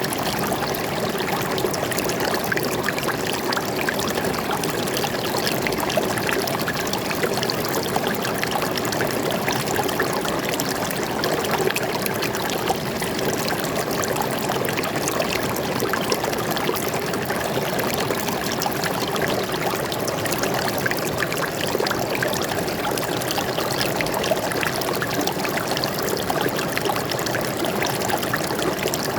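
Water flowing and splashing steadily over rocks in a forest stream, a continuous rushing babble with many small splashes.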